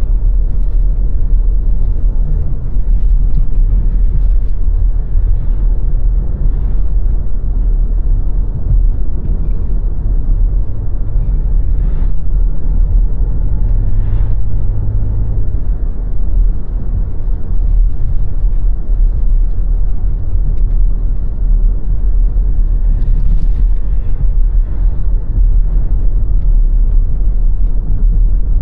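Car driving along a road: a steady low rumble of tyres and engine, with a faint engine hum coming through about midway.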